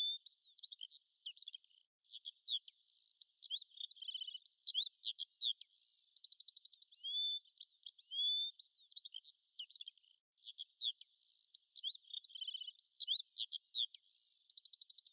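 Songbirds chirping: a busy run of quick rising whistles, short chirps and fast trills, with brief breaks about two seconds in and again about ten seconds in.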